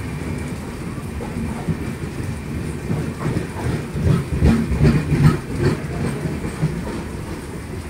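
Bangalore–Kanyakumari Express passenger train beginning to pull out of the station: a steady low rumble with a run of clattering knocks from the wheels and couplings, loudest about halfway through.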